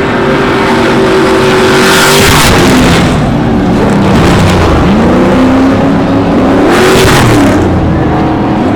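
Off-road racing trucks' V8 engines running and revving up and down, with two loud rushing bursts of noise about two and seven seconds in.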